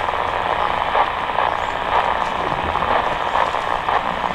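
Steady rolling noise of a train running on rails, a continuous rushing hiss with faint crackle.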